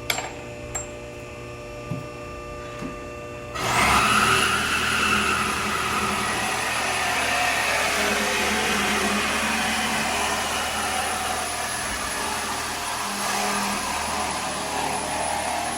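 A few light clicks, then about three and a half seconds in a high-speed air-powered shop tool starts and runs steadily with a high whine.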